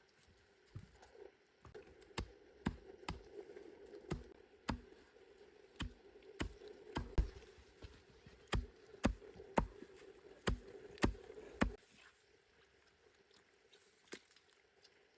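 A run of irregular knocks or crunches, about two a second, stopping abruptly near the end.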